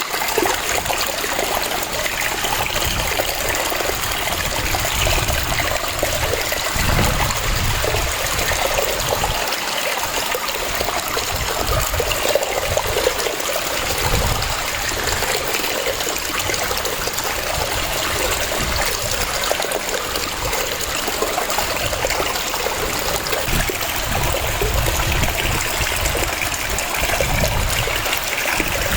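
Waterfall: a steady rush of cascading water, with uneven low rumbling swells under the constant hiss.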